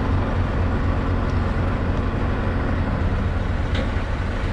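Scania V8 truck engine running steadily.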